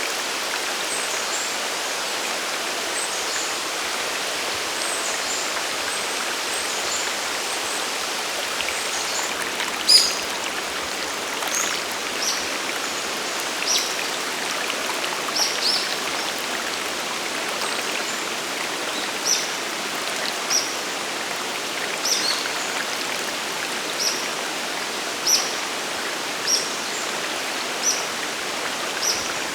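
Steady rushing water of a mountain waterfall and stream. Over it a bird calls with short high chirps, faint at first, then repeating about every second or two from about a third of the way in.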